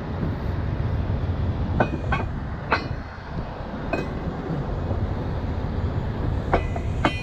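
Steady low diesel rumble of heavy tow equipment running, with about six sharp metal clanks and clinks of tow gear being handled.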